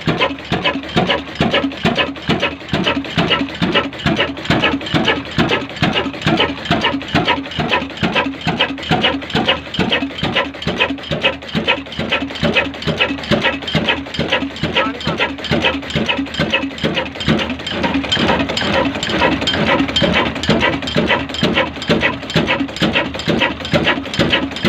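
Kala desi oil engine, a slow-running single-cylinder diesel, running steadily with an even beat of about two to three strokes a second.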